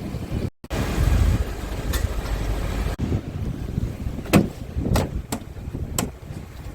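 Scania R450 truck's 13-litre inline-six diesel running, a steady low rumble with wind on the microphone. The sound cuts out briefly just after the start, and four sharp knocks come in the second half.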